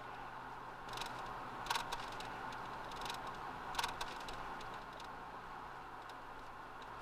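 Steady background hiss with a few sharp clicks.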